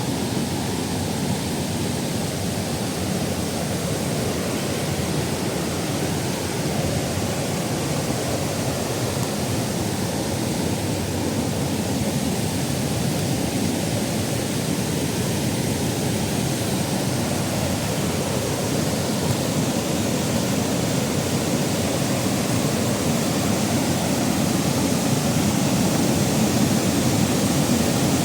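Waterfall: a steady rush of falling water, getting slightly louder near the end.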